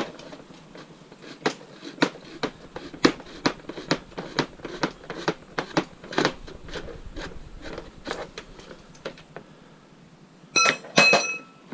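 Scrap metal being handled and dismantled: a long run of irregular knocks and clicks, then two loud metal clangs that ring on near the end.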